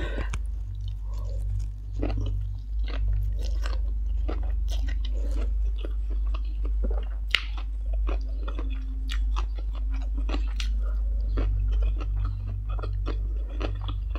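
A person chewing mouthfuls of stir-fried instant noodles and green papaya salad, picked up close by a lapel microphone: many short, irregular mouth clicks and crunches. A steady low hum runs underneath.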